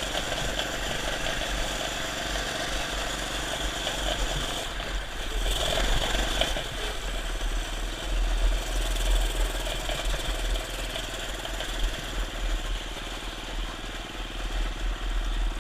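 Minibike engine running during a ride, its loudness rising and falling.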